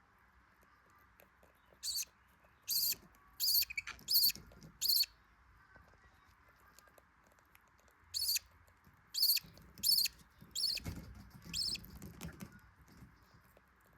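Budgerigar nestlings giving short, high-pitched begging squeaks, about five in quick succession and then another five after a short pause.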